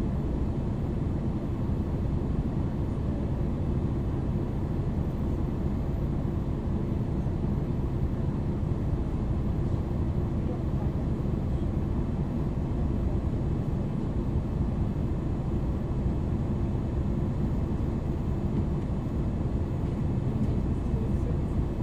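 MAN NL 323 city bus heard from inside: its diesel engine, ZF EcoLife automatic gearbox and tyres make a steady drone while cruising, with no revving or gear changes.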